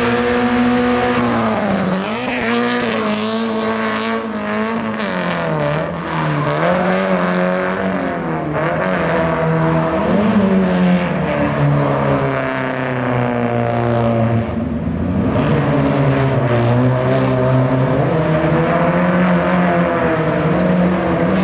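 A car engine revving up and down over and over, its pitch rising and falling every second or two.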